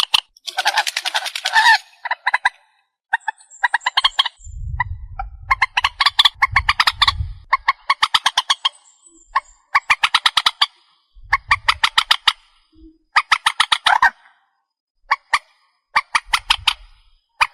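Swamphen calling: bursts of rapid, harsh, clucking notes, each burst lasting one to two seconds with short gaps between.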